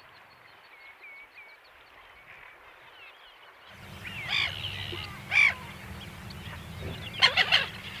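Birds calling at a lake: faint, short chirps at first, then two loud, harsh calls about a second apart near the middle and a few more calls near the end, over a low, steady background.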